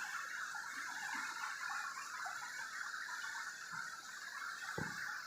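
Steady rushing of flowing water, with one soft low thump near the end.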